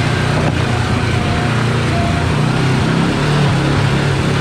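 Side-by-side UTV engine running at low trail speed, its pitch rising and falling a little with the throttle as the machine crawls over rough ground. There is a single sharp knock about half a second in.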